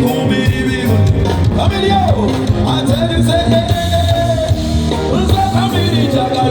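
Live band music with a lead singer, who slides between notes and holds one long note in the middle over a steady bass line.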